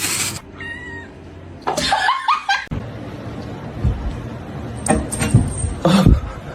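A cat's short meows and people laughing, with a few sharp knocks later on.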